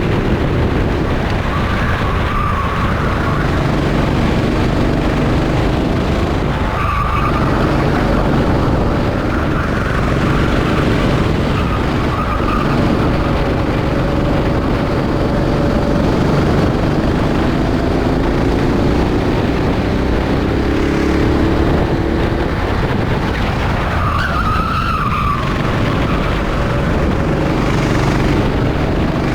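Rental kart engine running hard, its pitch rising and falling as it revs up and eases off, with tyres squealing briefly several times through corners.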